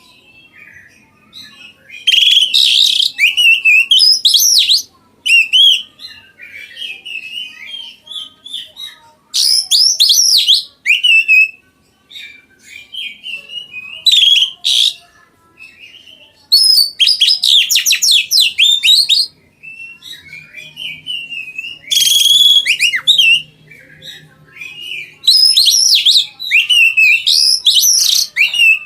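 Oriental magpie-robin (kacer) singing in loud, varied whistled phrases of a second or two, with short pauses between them.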